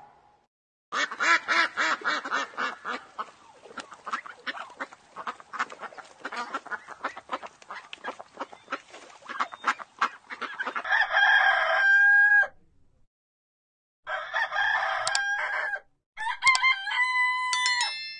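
Chickens clucking in a rapid run of short calls, followed by a rooster crowing three times, each crow a long held call.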